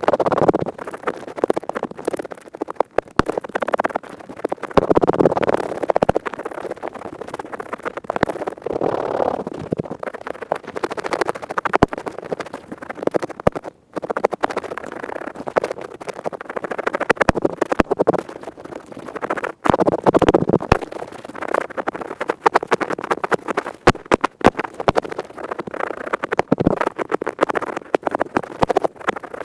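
Earpick scratching at high speed close to the microphone, an ASMR ear-cleaning sound: dense, crunchy scratching that swells and eases in waves every few seconds, with a brief break about halfway through.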